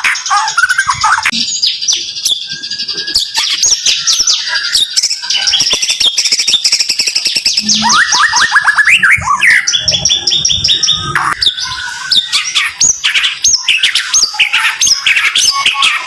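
White-rumped shama (murai batu) singing loud, close rapid-fire song ('tembakan'): dense volleys of very short, quickly repeated high whistled and chattering notes, one burst running into the next.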